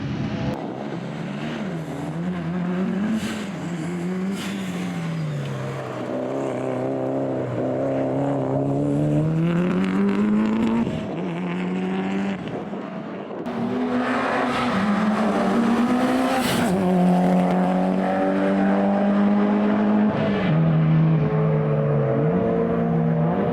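Tarmac rally car engines at high revs, the pitch climbing and dropping again and again through gear changes and braking for corners, with some tyre squeal.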